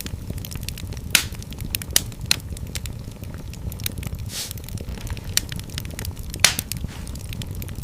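Wood fire crackling in a fireplace: irregular sharp pops and snaps over a steady low rumble. The loudest pops come about a second in, around two seconds in, and about six and a half seconds in.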